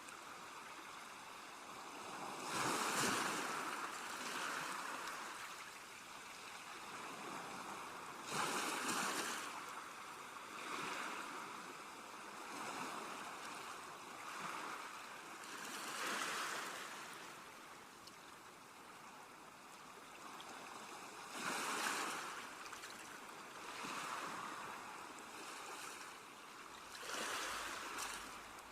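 Sea waves washing onto a shore. A larger wave breaks every five to seven seconds, with smaller washes in between.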